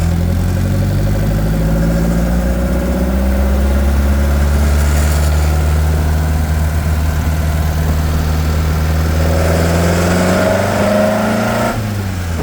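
1928 Ford Model A four-cylinder engine with an overhead-valve head conversion, running under load as the car drives, not yet warmed up. It holds steady, climbs in revs over the last few seconds, then falls off sharply near the end.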